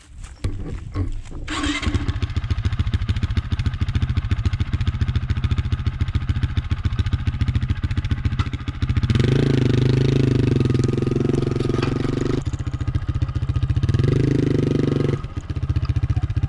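Honda CRF450RL's single-cylinder four-stroke engine running as the bike is ridden, a fast, even firing beat. The engine gets louder with more throttle from about nine to fifteen seconds in, then eases off.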